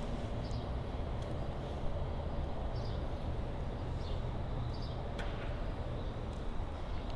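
A few light, scattered clicks of hands and tools working on a road bicycle's wheel and frame, over a steady low rumble.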